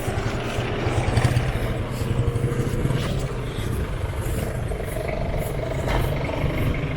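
A motor vehicle engine running close by, a steady low pulsing sound over street noise.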